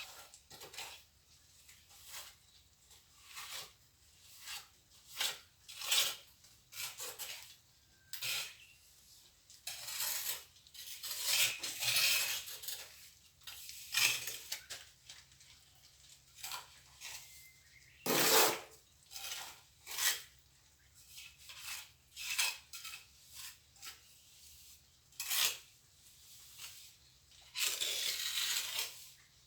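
Steel plastering trowel scraping and clinking in irregular short strokes as cement mortar is picked up and spread, with a louder scrape about eighteen seconds in.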